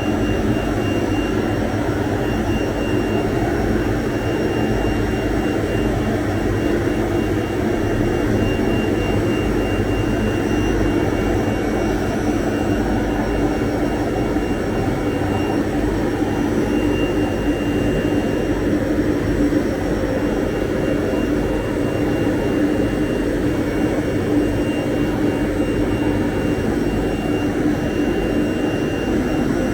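Large 3000 × 2000 mm CNC router running continuously: a steady mechanical drone with a thin, constant high whine over it.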